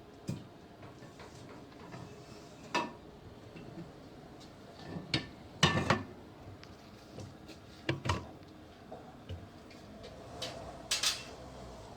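Metal parts clinking and knocking in scattered separate strikes during work on a Dana 44 rear axle's shafts and C-clips, the loudest knock a little before the middle.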